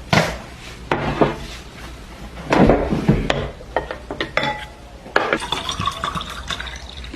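Dishes and cutlery clattering in a kitchen: an irregular string of clinks and knocks, busiest about two and a half to three seconds in, some of them ringing briefly.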